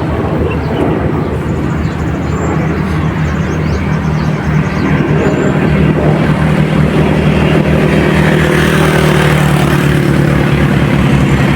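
An engine running steadily with a low, even hum, growing gradually louder.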